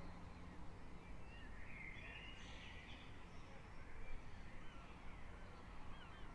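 Faint early-morning birdsong: several birds chirping and calling in short scattered notes, over a steady low rumble of the town's background noise.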